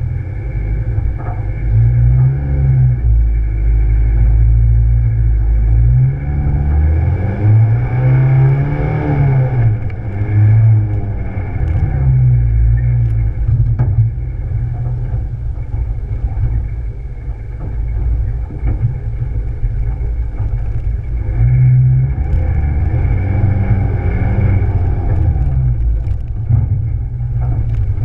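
Rally car's engine heard from a camera mounted on the outside of the car, revving up and dropping back again and again over a steady low rumble as it drives an off-road trial stage.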